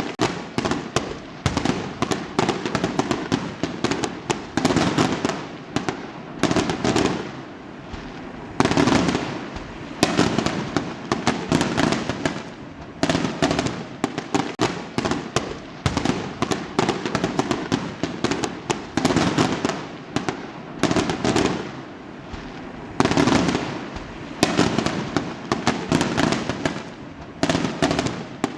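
Fireworks going off in rapid succession: clusters of sharp bangs and crackling, each lasting a second or two, follow one another with only brief lulls between them.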